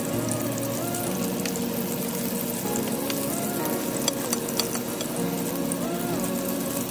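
Battered shrimp sizzling steadily in hot oil in a frying pan, with a few light clicks of a spoon and fork against the pan as the pieces are turned. Soft background music plays underneath.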